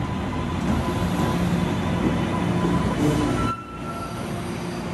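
MBTA Green Line light-rail train pulling in alongside a subway platform, a loud steady rumble of wheels on rail. About three and a half seconds in the noise drops sharply as the train comes to a halt, with a brief high squeal at that moment.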